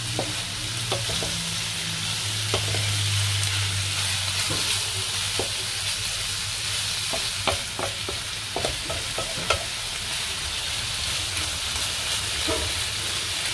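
Diced chicken breast sizzling as it is stir-fried in a non-stick pan, with a steady frying hiss and the wooden spatula scraping and tapping against the pan at irregular moments.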